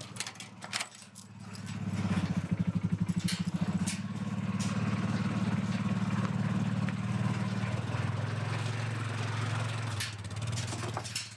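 A few clicks, then a vehicle engine comes up about two seconds in with a rapid pulsing and settles into steady running before fading near the end.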